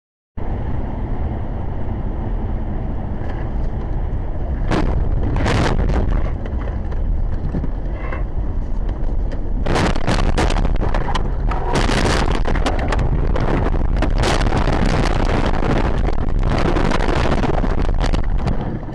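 Dash cam microphone recording in a moving vehicle: a loud, steady rumble of road and wind noise, broken by several sudden loud bursts of noise. The biggest bursts come about ten, twelve and fourteen seconds in.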